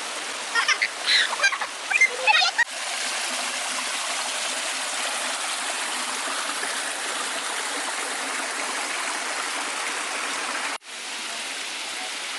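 Steady hiss of a small waterfall and stream running over rocks. Brief high voices come through in the first couple of seconds, and the water sound drops out for an instant near the end.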